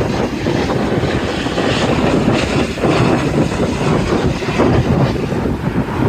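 Steady jet noise from an arriving American Airlines Boeing 737, mixed with wind buffeting the microphone.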